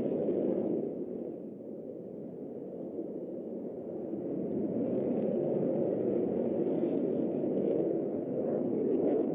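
Low rumble of jet aircraft engines, easing off a second or two in and then building up again.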